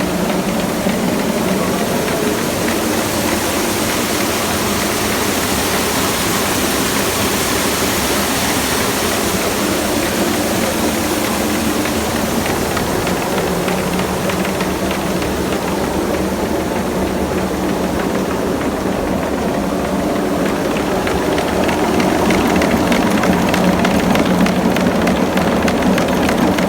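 Flour-milling machinery running steadily with a droning hum, a little louder in the last few seconds.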